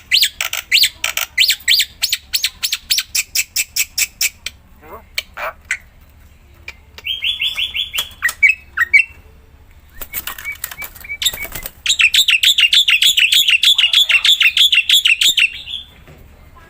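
Black-winged myna (jalak putih) singing in full voice. It gives runs of rapid, harsh repeated notes, then a short trill about seven seconds in, and a long, fast rattling chatter from about twelve seconds in.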